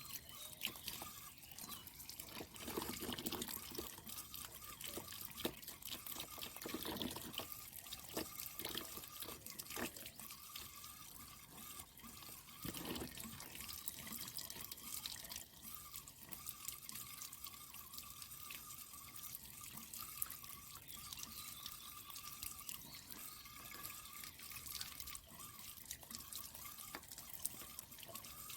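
Water running, dripping and splashing as a water-tank filter for stream water is rinsed by hand, with a few louder splashes in the first half and a faint steady tone underneath.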